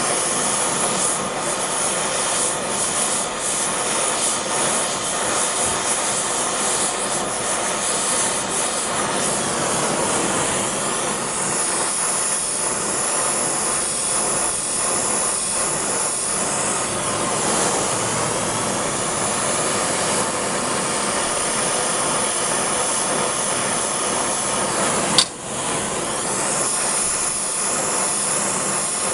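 Gas torch flame burning steadily with an even rushing noise while threads are brazed onto a knife tang. A single sharp click sounds about 25 seconds in.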